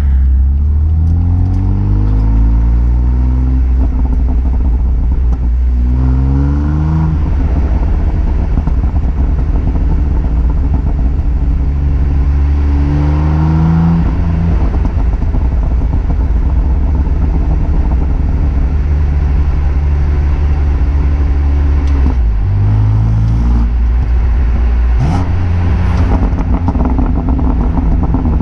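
BMW M2 Competition's twin-turbo straight-six on its stock exhaust with particulate filter, running under load: the engine note climbs several times and drops back between climbs, like pulling through the gears. A few sharp cracks come near the end.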